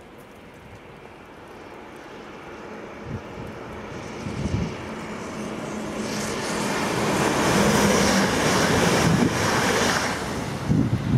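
Red electric regional train approaching and passing at speed: a rush of wheels on rail and air that grows steadily louder and is loudest in the last few seconds, with a steady low hum from about four seconds in.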